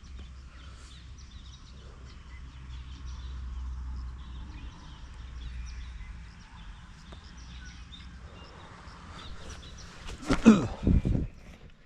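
Outdoor ambience of many short, high bird chirps, over a low steady rumble during the first half. About ten seconds in comes a loud, pitched, wavering sound that lasts about a second.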